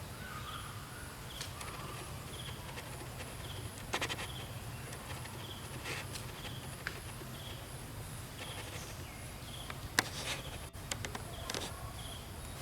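Outdoor insect chorus: a short high chirp repeating evenly, about one and a half times a second, over a fainter, higher pulsing buzz. A few sharp clicks or rustles come about four, six and ten seconds in.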